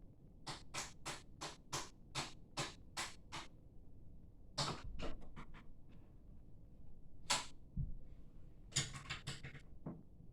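A series of short, sharp scratching clicks: about ten at roughly three a second, then irregular clusters of them and one louder click about 7 seconds in.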